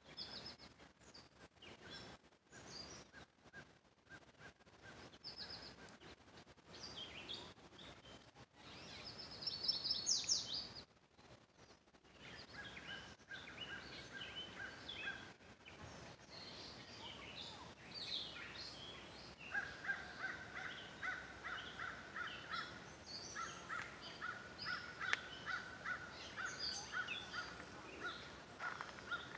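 Several wild birds chirping and singing, with short high chirps and a loud trill about ten seconds in. In the second half a quick run of evenly repeated calls carries on under the chirping.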